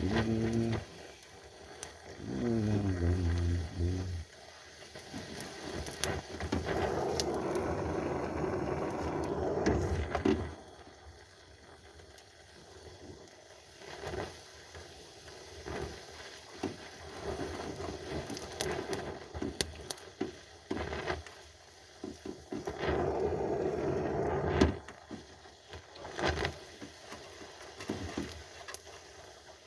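Welding arc crackling in two bursts of about three and two seconds, with scattered clicks and knocks in between.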